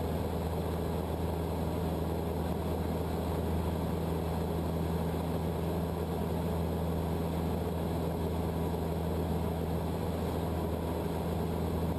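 Cessna 152's four-cylinder Lycoming engine and propeller droning steadily in flight, heard from the cockpit, with no change in pitch or level.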